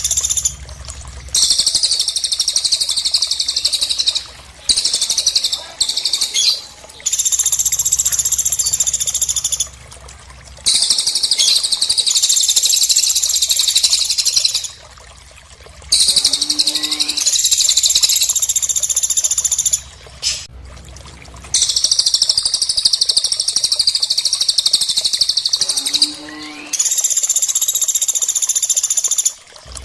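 Bird-tutoring recording of cililin and pelatuk (woodpecker) calls: long, loud, high-pitched trilling phrases of several seconds each, broken by short pauses, with a lower stuttering call about halfway through and again near the end.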